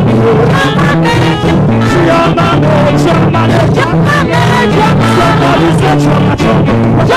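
Live gospel band music with a steady drum beat, bass and guitar, and singing over it.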